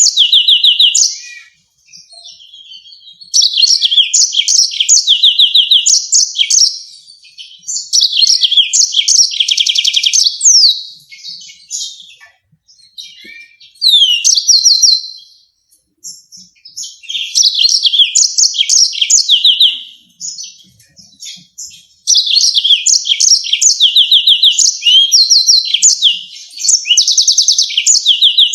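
Yellow-fronted canary singing: loud, high phrases of fast trills and sharp, rapidly repeated notes, each phrase lasting a few seconds with short pauses between, six phrases in all.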